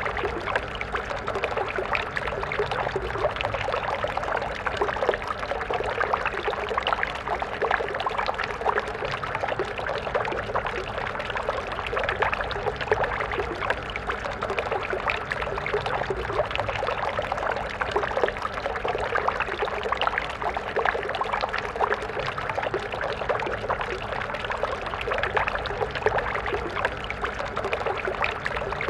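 Stream water flowing steadily over rocks, a continuous splashing and gurgling rush.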